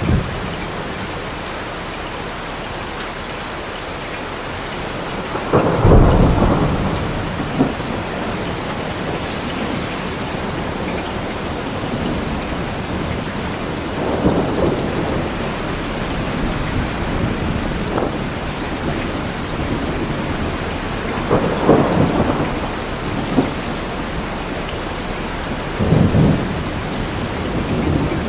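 Steady rain falling, with thunder rumbling four times; the loudest roll comes about six seconds in.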